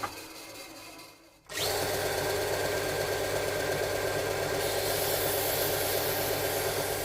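An electric workshop power tool is switched on about a second and a half in and runs steadily. A higher hiss joins about two-thirds of the way through.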